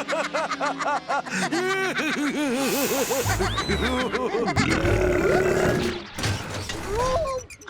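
Cartoon soundtrack: a character's quick, repeated pitched vocal sounds over music, then a low rumble with a short falling whistle and clattering crash effects.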